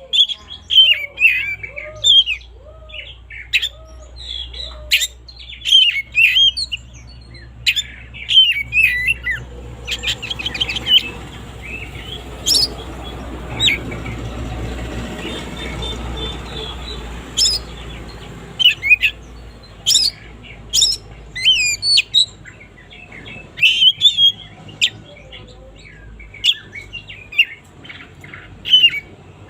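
Oriental magpie-robin singing: rapid, varied whistles and sharp chirps, with a run of lower repeated notes near the start. A rushing noise swells and fades under the song through the middle.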